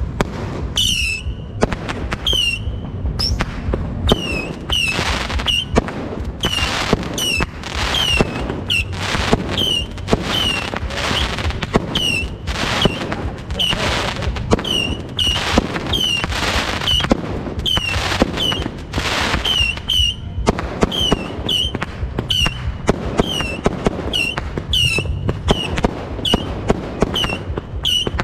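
New Year fireworks and firecrackers going off continuously in many sharp bangs and crackles, some deep booms among them. Over them a short high whistle falls in pitch, repeating about once a second.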